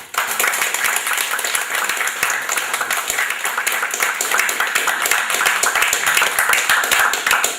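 Audience applauding, a dense steady clatter of many hands clapping that breaks out suddenly at the end of a song.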